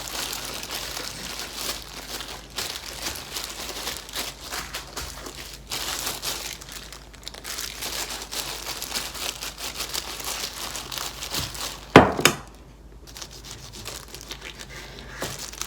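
Continuous crinkling and rustling of packaging being handled, with one sharp knock about twelve seconds in, after which it goes quieter.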